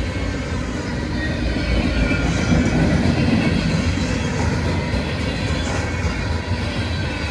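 CSX freight train Q-372's cars rolling past, a steady rumble of steel wheels on rail.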